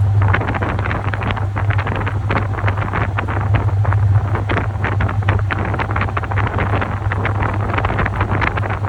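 Top-loading washing machine running: a steady motor hum under water sloshing and splashing in the drum.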